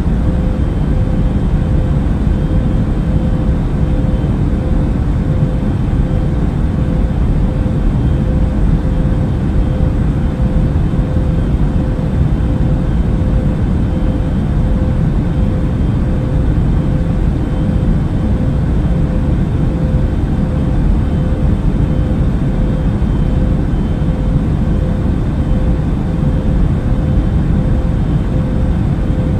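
Steady in-flight airliner cabin noise: a constant low rumble of engines and rushing air, with a steady hum above it.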